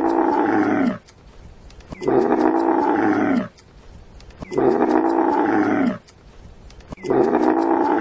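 An animal calling over and over: long, drawn-out pitched calls, each about a second and a half, with gaps of about a second between them.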